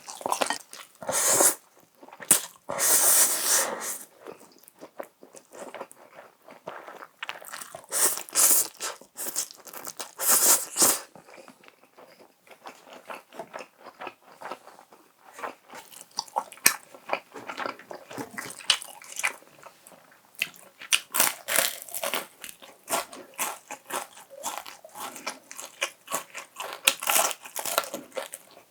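Close-miked crunching and chewing of crisp fried chicken, with several louder crunchy bites spread through and wet chewing clicks between them.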